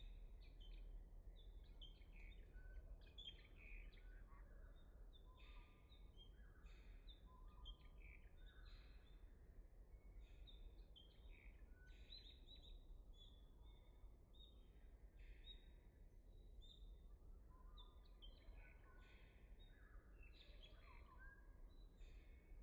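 Faint birdsong: many short, overlapping chirps and calls from several small birds, over a steady low rumble.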